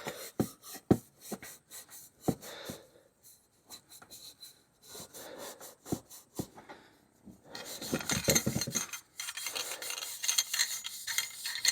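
Abrasive scuff pad rubbing dry against a stainless steel exhaust muffler, scratchy back-and-forth scrubbing strokes with scattered light knocks. The scrubbing gets louder and more vigorous about halfway through.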